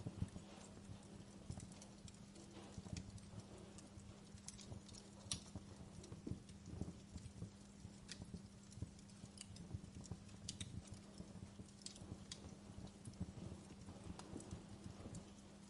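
Campfire burning, with irregular crackles and sharp pops of wood over a low rumble of the flames.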